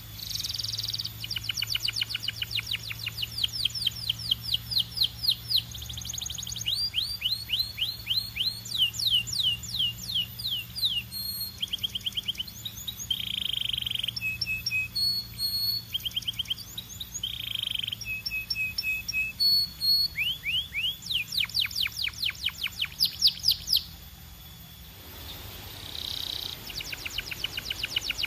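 Belgian canary singing a long song: fast trills of quickly repeated downward-sweeping notes alternating with short steady held notes, pausing briefly near the end before starting again.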